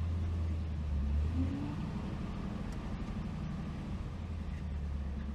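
1965 Ford Thunderbird's 390 V8 running steadily in drive, held at speed with the wheels turning on stands. It is a low, even drone that eases off about a second and a half in and comes back stronger near the end.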